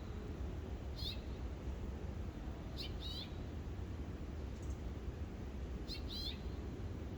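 Birds chirping: short, high chirps, some in quick pairs, every second or few, over a steady low background rumble.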